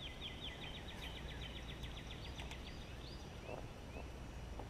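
A songbird singing: a fast, even trill of about ten notes a second that stops about two seconds in, then a few short rising chirps. There is a steady low rumble of outdoor background noise under it.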